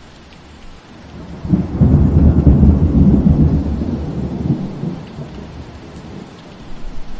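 Steady rain with a roll of thunder: a deep rumble swells about a second and a half in, is loudest for the next couple of seconds, and dies away.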